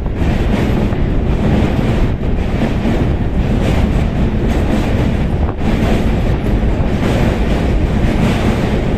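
Passenger train crossing a steel truss railway bridge, heard from inside the carriage: a loud, steady rumble of wheels on the rails.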